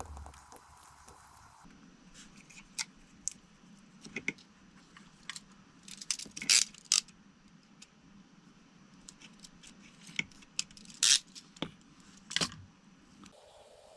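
Scattered light clicks, taps and scrapes of small tools and parts handled on a workbench, with a few sharper clicks about halfway through and near the end.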